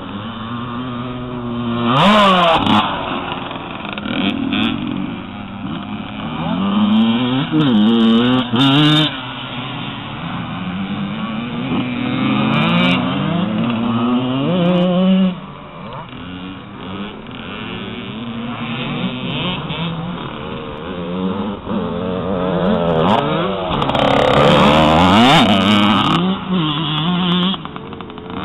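Motocross bike engines revving, their pitch rising and falling again and again as they accelerate and shift, with more than one bike heard at once.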